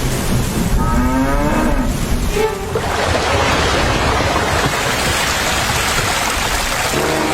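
A cow mooing, one rising call about a second in, followed by a steady rushing noise, with another short moo near the end.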